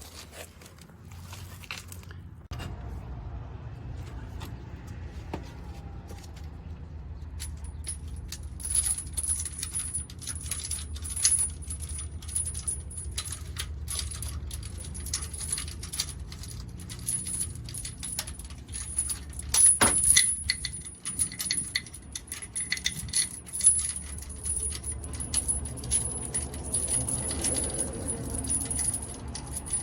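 Irregular metallic clinks and rattles of tools and parts being handled during a clutch job, over a low steady hum; a thin, steady high whine sets in about seven seconds in.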